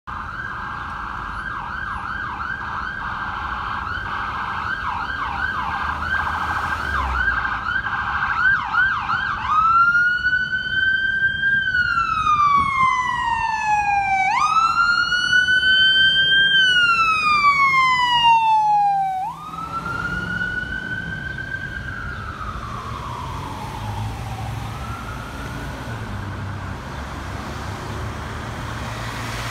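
Emergency vehicle siren: a fast yelp for about ten seconds, then a switch to a slow rising and falling wail. The loudness drops suddenly about two-thirds of the way in, and the wail carries on fainter and trails off, over a low rumble of traffic.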